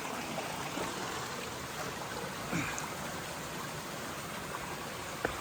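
Forest stream flowing steadily, with a brief swish about two and a half seconds in and a sharp click near the end.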